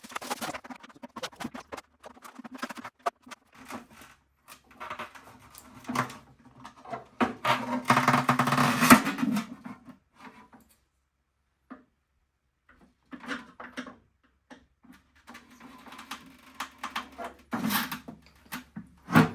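Clicks, knocks and scraping of a pry tool working at an oven-heated plastic headlight housing to break its softened seal, with a louder, longer scraping stretch about eight seconds in.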